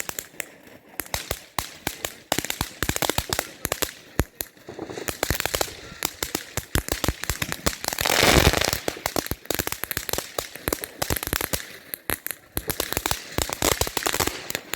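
Consumer fireworks going off: a dense stream of rapid crackles and sharp pops, with one louder, longer burst about eight seconds in.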